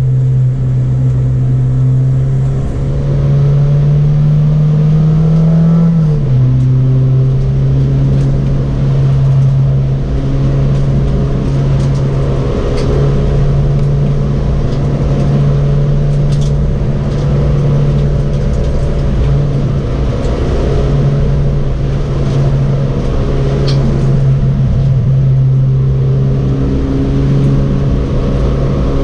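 Honda Civic EG's B18C four-cylinder engine heard from inside the cabin, pulling hard on track. Its pitch climbs for a few seconds, then drops sharply about six seconds in at a gear change, and it runs fairly steady after that.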